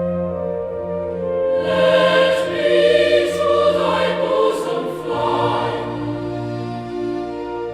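Choir singing a slow hymn in held chords over a sustained bass, the lower part moving to a new chord about five seconds in.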